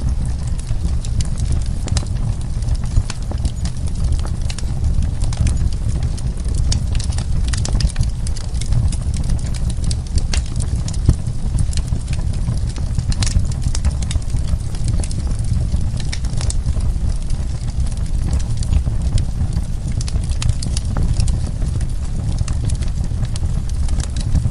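Wood fire crackling in a fireplace: frequent sharp pops and snaps over a steady low rumble of the burning logs.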